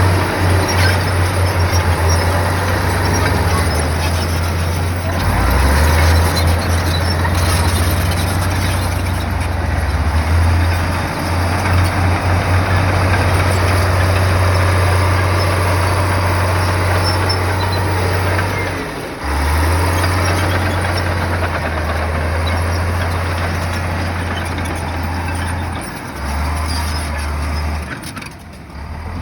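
Heavy crawler bulldozer working, its diesel engine a deep drone that steps up and down in pitch under changing load, over a continuous mechanical din. The machine eases off briefly about two-thirds of the way through and again near the end.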